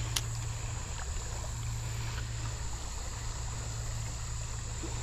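Steady creek ambience with a constant low rumble from water and wind on the microphone, and a single short sharp tick just after the start.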